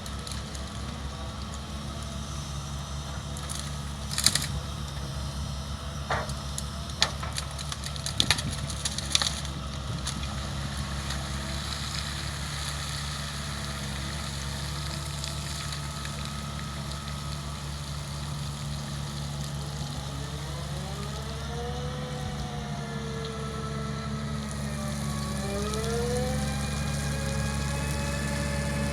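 Doosan DX160W wheeled excavator's diesel engine running steadily, with several sharp cracks and knocks in the first ten seconds or so. From about 20 s a whine rises and falls in pitch as the machine works, and the sound grows louder near the end.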